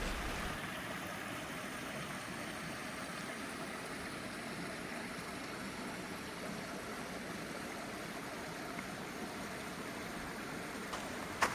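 Steady rushing of a flowing mountain stream, an even hiss with no pitch to it. A sharp click or two comes just before the end.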